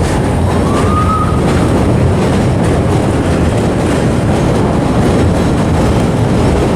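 Vintage subway train running on the track, a loud steady rumble of wheels and car, with a short high wheel squeal about a second in.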